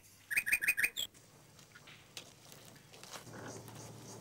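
Small bird chirping: a quick run of about five short chirps in the first second and one more just after. Then only a faint outdoor hiss and a low hum.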